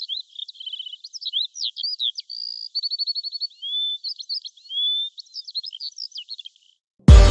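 A songbird singing a varied song of chirps, quick trills and short rising whistles. It stops about six and a half seconds in, and loud electronic music with a heavy bass beat starts just before the end.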